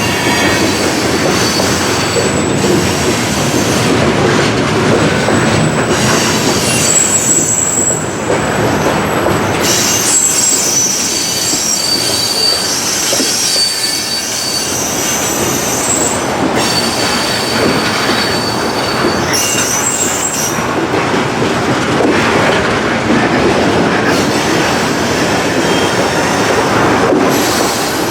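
Norfolk Southern freight train rolling by with a steady rumble of wheels on rail. A high-pitched wheel squeal comes and goes several times.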